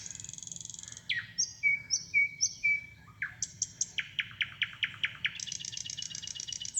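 Birdsong played over a restroom's sound system: a continuous run of varied high chirps, short whistled notes and fast repeated trills.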